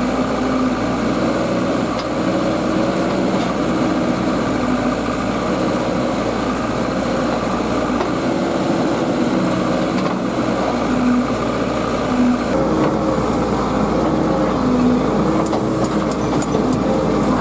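Diesel engine of working heavy machinery (a tractor or JCB) running steadily, its pitch rising and dipping slightly under load, with a few faint clicks near the end.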